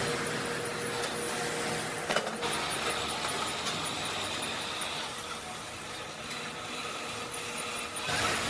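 Machine tool running steadily while thread-tapping a cast iron sewing machine frame. A thin whine runs under it and breaks off with a sharp click about two seconds in; a higher whine then follows for a few seconds.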